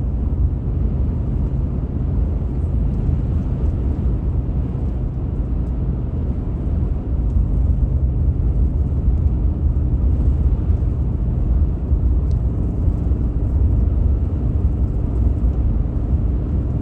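Vehicle driving at a steady pace, with a continuous low rumble of engine and road noise.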